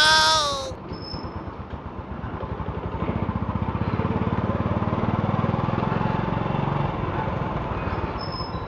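Small motorcycle engine running under way with fast, even exhaust pulses. It grows louder from about three seconds in and eases off near the end, with wind rushing over the microphone.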